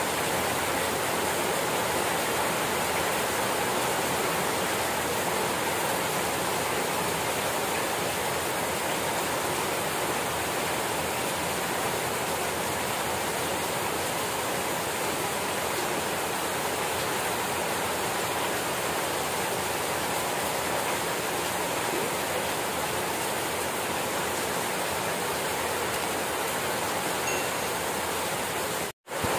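Rain falling steadily, an even hiss. It drops out for an instant near the end.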